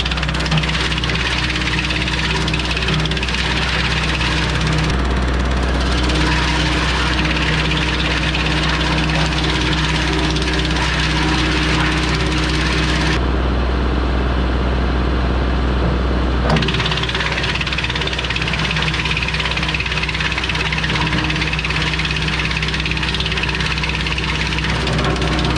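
Valby wood chipper driven off the PTO of a Kubota L3301 three-cylinder diesel tractor, running steadily at working speed while chipping brush. The chipping noise over the engine shifts abruptly a few times, dropping away for a few seconds past the middle.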